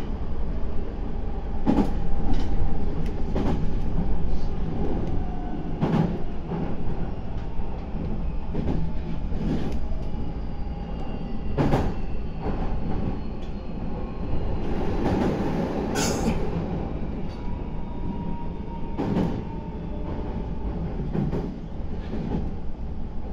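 Meitetsu 9500 series electric train running, heard from on board: a steady rumble with irregular sharp clicks of the wheels over rail joints, and faint whining tones that slowly drop in pitch. A brief louder hiss and squeal comes about two-thirds of the way through.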